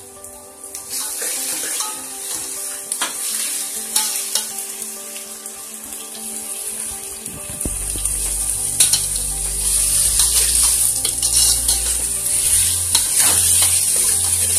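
Ginger-garlic paste and sliced onions sizzling in hot oil in a metal pot, with a slotted metal spoon stirring and clicking against the pot. The sizzle gets louder about a second in, and a low hum joins about halfway.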